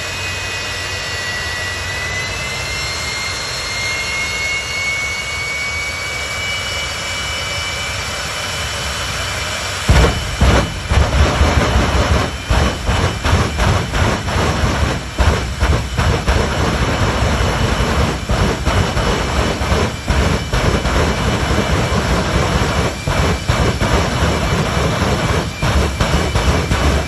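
A high, jet-like turbine whine with several pitches rising slightly together. About ten seconds in it breaks off abruptly into a louder, choppy low rumble with irregular gusts.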